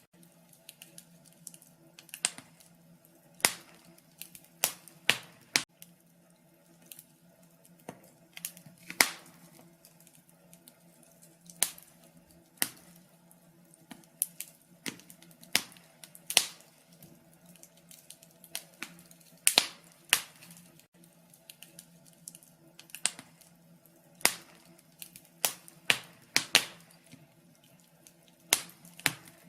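Wood fire crackling in a fireplace: sharp, irregular pops and snaps every second or so over a faint steady hum.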